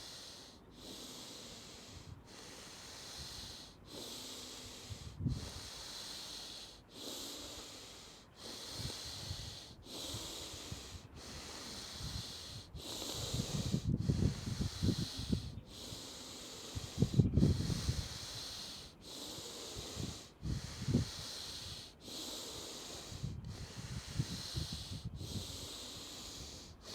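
Wim Hof method power breathing: deep, forceful breaths in and out in an unbroken rhythm of about one breath a second, each breath a rushing hiss. Some low rumbling comes and goes in the middle stretch.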